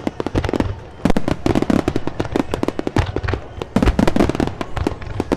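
Aerial fireworks bursting in rapid volleys: dense clusters of sharp cracks and pops with deep booms underneath, swelling about a second in and again about four seconds in.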